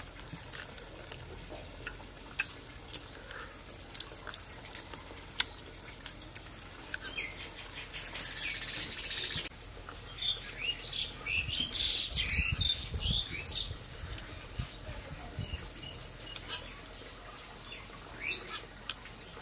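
Small birds chirping and twittering in short high calls, with a dense burst of high hiss lasting about a second and a half about eight seconds in and a flurry of calls a few seconds later, over some low thumps. Faint scattered clicks run underneath.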